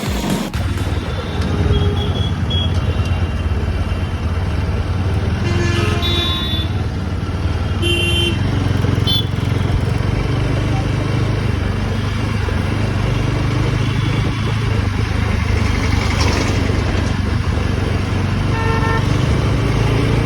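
Bajaj Pulsar RS200 motorcycle being ridden in traffic, its single-cylinder engine running steadily under wind and road noise. Short vehicle horn toots sound about six and eight seconds in and again near the end.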